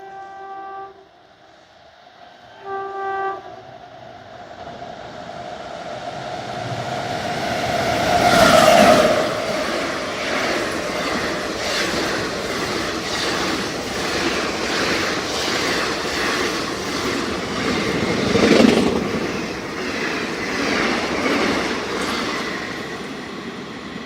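An Indian Railways express train's horn gives two short blasts. The train then passes at speed: the rumble swells to a peak about eight seconds in, followed by a steady clickety-clack of coach wheels over the rail joints.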